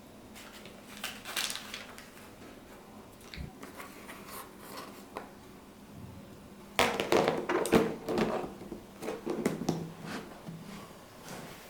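Kitchen handling sounds: scattered light clicks and rubbing, then a louder stretch of clattering and rubbing from about seven seconds in.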